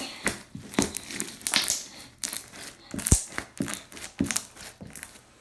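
Stretchy slime being worked by hand, stretched out and folded over, giving a run of sticky crackles, clicks and pops from trapped air. The crackling dies away just before the end.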